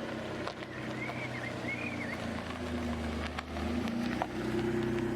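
A 1991 Mitsubishi GTO Twin Turbo's 3.0-litre V6 engine idling steadily.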